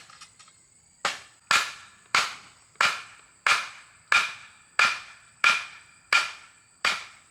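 A series of about ten sharp blows at a steady pace of roughly one every two-thirds of a second, each ringing briefly, as in chopping or hammering, over steady insect trilling.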